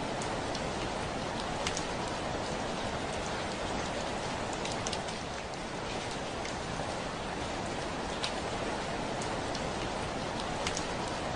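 Heavy rain falling steadily, with a constant hiss and scattered sharp ticks of individual drops striking the window glass.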